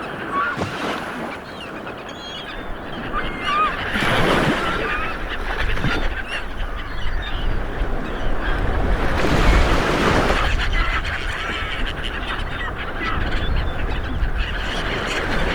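Ocean waves wash in, surging about four seconds in and again near ten seconds, with a low rumble of surf beneath. Over them, a flock of birds calls continually in many short notes.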